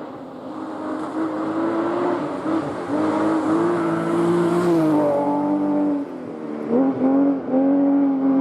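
Rally car engine revving hard through a stage. Its pitch climbs and holds, drops sharply about five seconds in, then rises in several quick bursts of throttle near the end as the car comes closer and louder.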